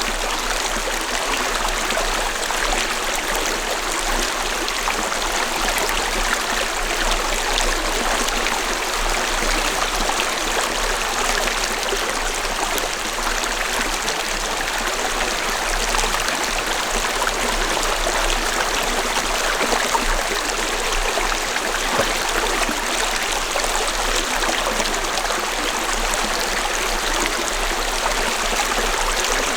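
A gentle valley stream flowing, a steady, unbroken rush of water.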